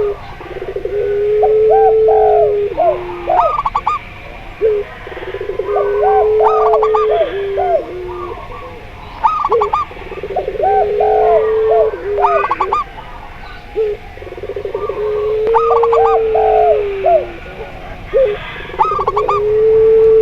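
Zebra doves, spotted doves and a puter pelung (a Barbary dove breed kept for its long coo) cooing together in a repeating pattern, about every four to five seconds. Quick rising coos overlap a long, low, held coo.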